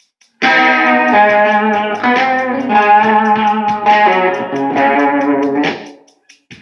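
Guitar playing a blues phrase: a sharp strike about half a second in, then notes ringing on and fading out about six seconds in.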